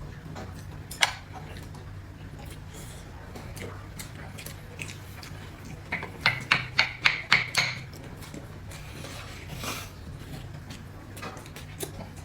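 Utensils clinking and tapping against dishes: one sharp clink about a second in, then a quick run of about eight taps midway, over a low steady hum.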